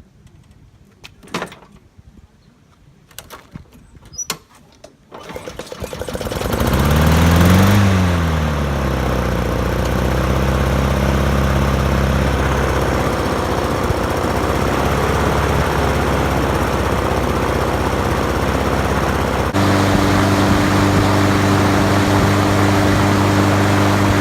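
A go-kart's small engine starts about five seconds in, after a few knocks and clicks, revs up briefly and then runs steadily, spinning a wheel to work a stuck, crunchy bearing loose. Its speed steps up near the end.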